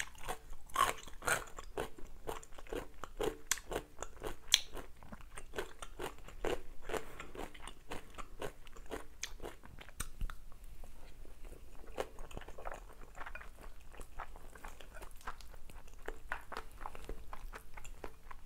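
Close-miked chewing of a mouthful of spicy curry rice: a run of short crunches and mouth clicks, thicker in the first few seconds and thinning out later.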